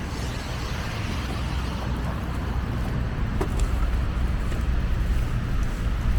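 Steady city street traffic noise with a low rumble from passing vehicles.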